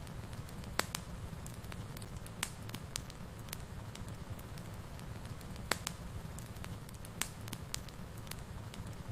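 Wood fire burning in a fireplace: a steady low rumble with irregular sharp pops and crackles, a few of them louder than the rest.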